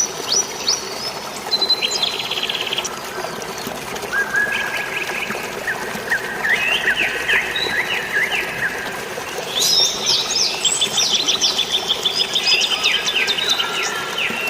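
Several songbirds chirping and trilling in quick overlapping phrases over a steady wash of flowing water, with the calls growing busier about ten seconds in.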